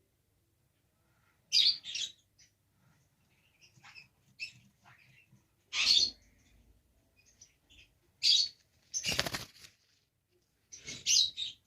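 Lovebirds giving short, shrill chirps in scattered bursts, with a louder, fuller burst about nine seconds in.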